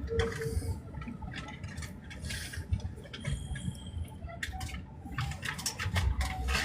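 Train running, heard from inside the passenger car: a steady low rumble with many scattered clicks and rattles and a few short, thin squealing tones.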